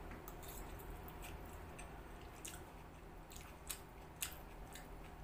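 Faint chewing of a mouthful of egg chowmein noodles, with a scattering of soft, wet mouth clicks; the sharpest two come a little under four seconds in.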